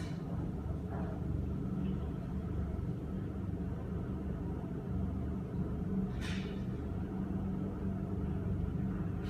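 Helicopter running, a steady low rumble of engine and rotor with a constant hum, and a brief hiss about six seconds in.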